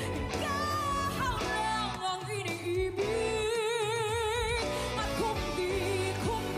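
A female vocalist sings a pop ballad over instrumental accompaniment, holding one long note with wide vibrato about halfway through.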